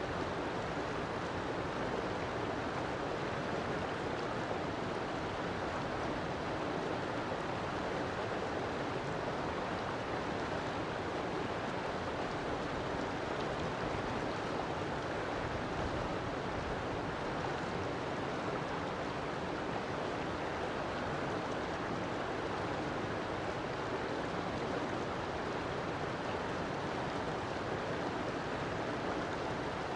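River water flowing steadily, a constant rushing that does not change.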